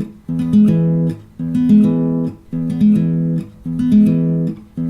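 Acoustic guitar being fingerpicked in an arpeggio exercise: the same chord is picked string by string in a repeating pattern, about one cycle a second.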